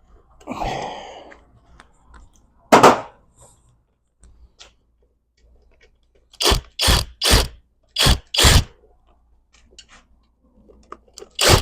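Metal tools and parts being worked on a manual transmission being taken apart: a short scrape, one sharp clank, then five quick sharp strokes in a row.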